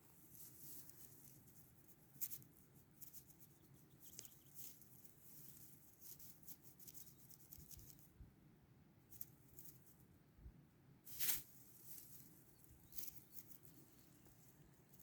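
Faint rustling and small scratchy crackles, with a louder rustle about eleven seconds in.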